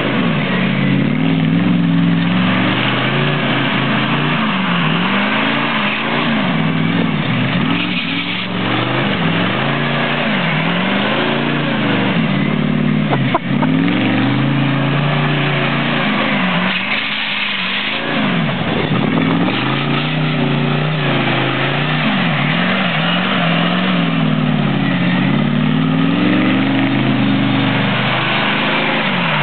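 Truck engine revving hard, its pitch climbing and dropping again and again as the throttle is worked. A single sharp click about halfway through.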